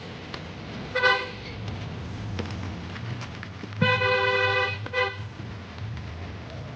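Vehicle horn honking: a short toot about a second in, then a longer honk of about a second near the four-second mark followed by a quick toot, over the steady low hum of a running engine.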